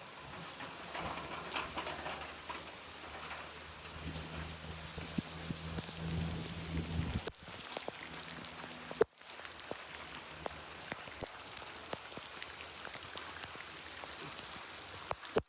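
Steady rain falling, with many individual drops ticking and pattering on surfaces. A low steady hum joins in a few seconds in, then cuts off about halfway through.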